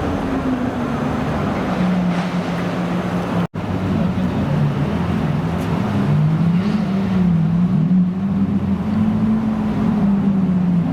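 Supercar engine running at low revs, its pitch wavering gently up and down. About three and a half seconds in, the sound cuts out for an instant.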